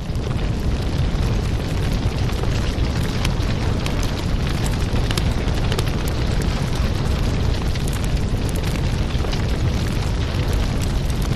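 Wood fire crackling in a fireplace: a steady low rumble of flames with frequent sharp pops and snaps.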